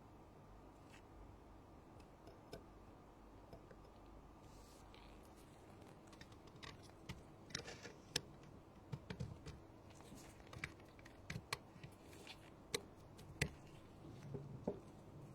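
Sparse, irregular small clicks and taps of hand tools on an iPhone's parts during repair work, starting about six seconds in, over a faint steady hum.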